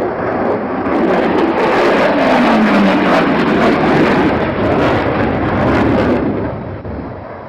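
Aircraft flying past: a loud rushing engine noise with a tone sliding down in pitch about two to three seconds in, fading away after about six seconds.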